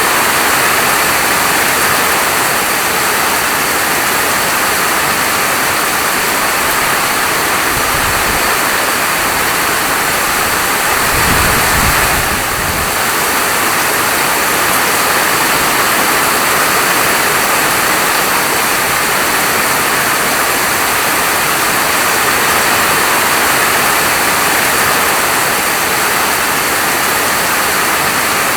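Steady heavy rain falling, a dense even hiss with no let-up. A brief low rumble comes through about eight seconds in and again, stronger, around a third of the way in.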